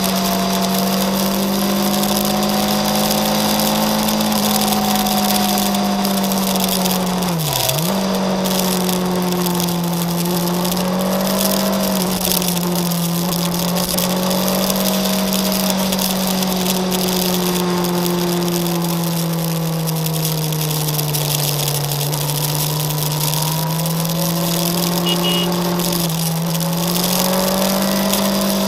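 Motorcycle engine running at steady road revs, its pitch slowly rising and falling with the throttle, with one quick drop and recovery in revs about eight seconds in. A steady rush of wind noise runs underneath.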